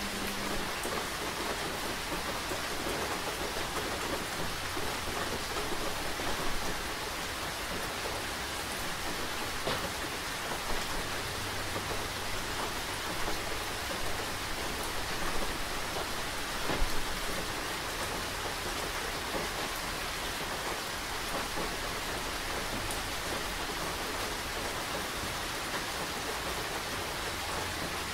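Steady rain falling, with a few louder single drops striking a surface, one of them standing out about two thirds of the way through.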